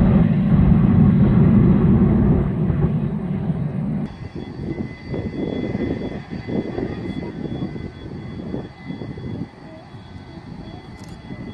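Boeing 737-200 jet engines (Pratt & Whitney JT8D low-bypass turbofans) at takeoff power: a loud, deep roar that drops sharply about four seconds in to a quieter, fluttering rumble with a faint steady whine.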